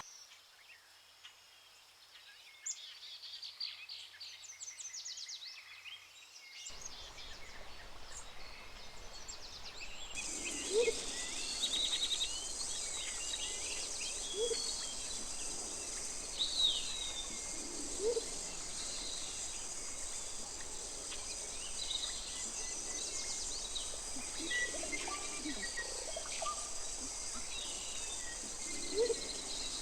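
Mixed birdsong: many short chirps and trills from several birds, with a low rising call repeated every few seconds. A steady high hiss joins about a third of the way in.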